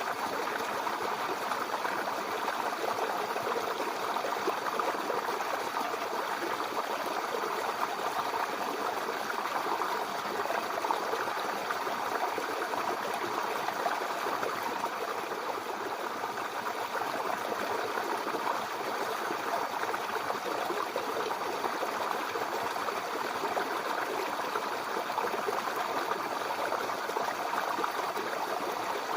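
Mountain river running steadily over rocks, a continuous even rush of water with a trickling edge.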